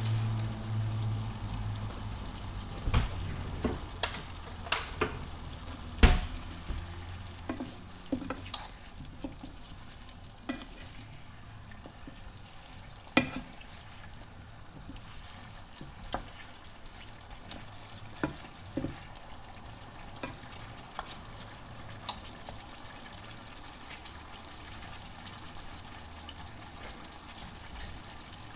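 Steady sizzling hiss of food frying in a pan, with scattered sharp knocks and clicks of a utensil, the loudest about six seconds in and again around thirteen seconds in. A low hum sounds under it for the first few seconds.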